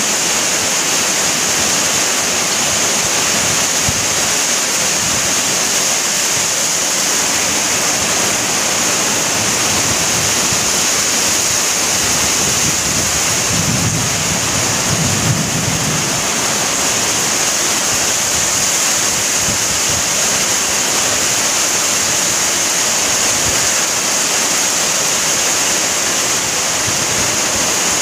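Heavy tropical downpour, a steady, dense hiss of rain. A brief low rumble comes about halfway through.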